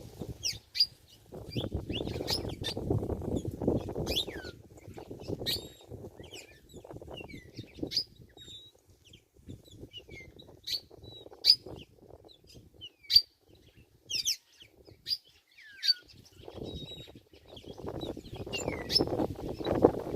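Birds chirping: many short, high chirps and quick downward-sweeping notes in a rapid, irregular series. A low rustling noise sits underneath from about a second in to about five seconds, and again from about sixteen seconds on.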